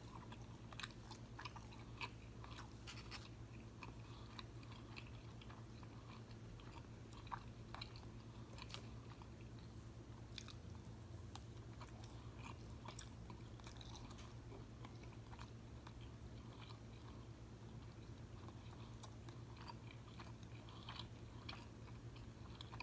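A person chewing a mouthful of quesadilla: faint, irregular mouth clicks and smacks, over a steady low hum.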